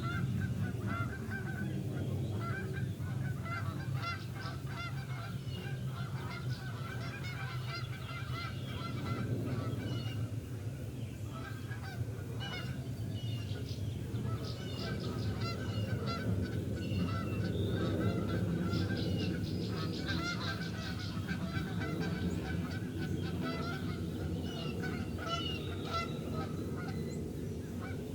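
A large flock of geese honking continuously, many overlapping calls at once, over a steady low rumble.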